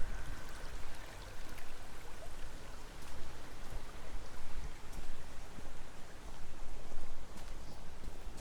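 Gusty wind rushing through trees, rising and falling in strength, with a low rumble of wind on the microphone.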